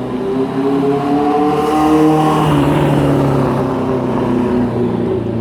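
A road vehicle driving past close by, its engine note rising and then dropping as it passes, loudest about two seconds in.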